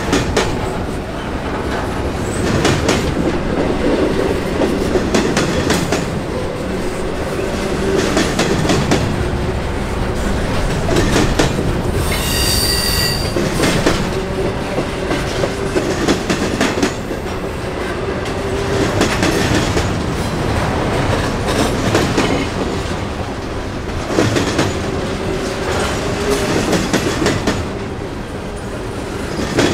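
Railroad cars rolling past, their wheels clicking in repeated groups over rail joints. A brief high-pitched wheel squeal sounds about twelve seconds in.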